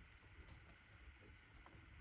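Near silence, with a few faint small clicks.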